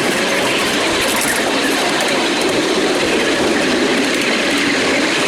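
Miniature railway train running along the track, heard from on board a passenger car: a steady running noise of wheels on the rails.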